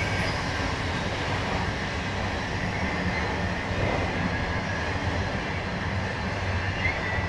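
Freight train rolling past with a steady rumble of railcars on the track, and a short high wheel squeal near the end.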